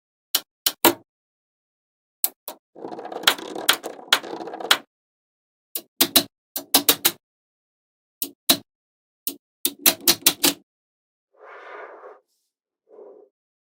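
Irregular sharp clicks and knocks in small clusters, separated by dead silence, with a scraping, rustling noise lasting about two seconds starting about three seconds in, and two brief faint noises near the end.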